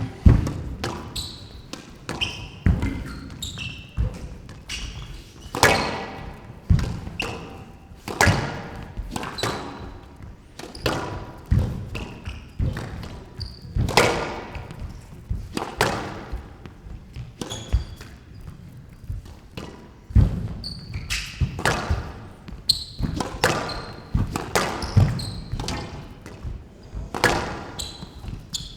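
Squash rally: the ball cracking off the rackets and slapping the court walls every second or so, with short high squeaks from players' shoes on the court floor between shots.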